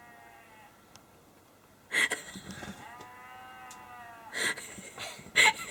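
A farm animal lets out one long, drawn-out call, about a second and a half long and starting near three seconds in, so hoarse it sounds like somebody shouting. Short rustling bursts come before and after it.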